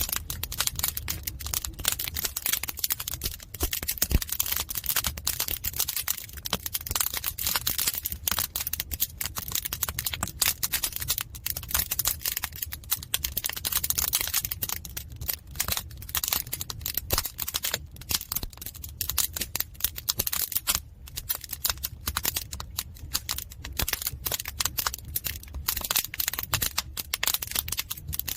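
Firewood burning in a traditional Korean agungi firebox: dense, irregular crackling and popping, with a steady low rumble underneath.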